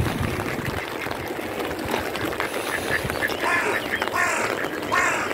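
Ducks quacking, a few harsh calls in quick succession in the second half.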